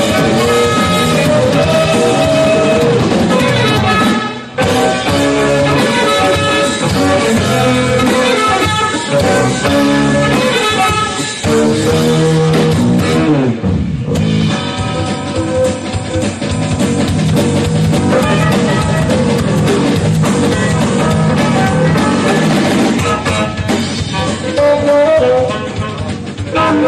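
Live instrumental rock band playing: electric guitar lines over drum kit and bass guitar, with a couple of brief breaks in the groove.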